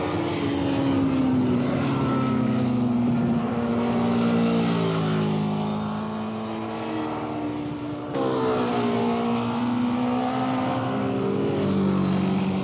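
Racing motorcycle engines running hard, their note sliding down in pitch over several seconds. About eight seconds in the sound changes abruptly, and the note falls again.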